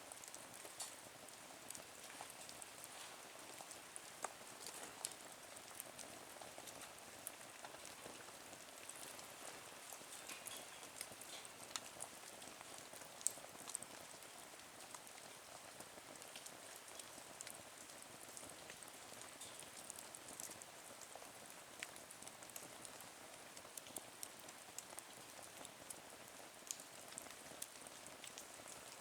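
Small wood fire burning in a camping Nature Stove, faint and steady, with frequent small crackles and pops over a soft hiss, and one louder pop about halfway through.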